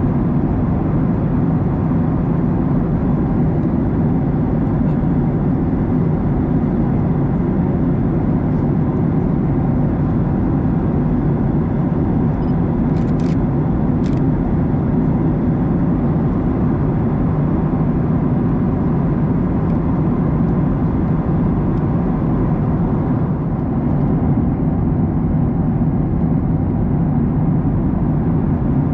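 Steady cabin noise of a Boeing 737-900ER in cruise: a dense, even drone of airflow and engine noise from its CFM56 engines, heard inside the cabin. A couple of faint clicks come about halfway through.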